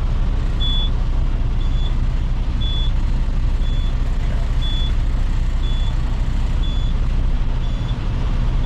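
Western Star dump truck's diesel engine running steadily while driving the PTO to raise the dump body, with a short high warning beep repeating about once a second.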